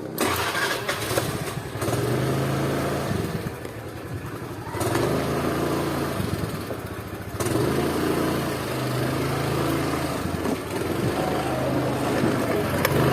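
A motorcycle engine running, its pitch and loudness rising and falling every few seconds as the throttle changes.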